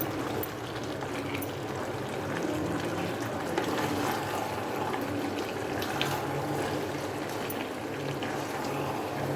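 Chicken and potatoes cooking in a pot of curry, bubbling and sizzling steadily in the juices released from the meat, with small crackles throughout. A faint steady low hum runs underneath.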